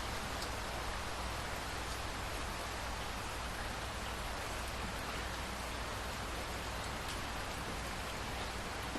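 Steady rain falling on a surface: an even hiss with a few faint drop ticks.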